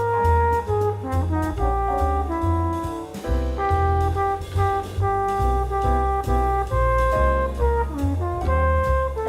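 Instrumental jazz: horns play a melody of held notes over a bass line and a steady drum beat.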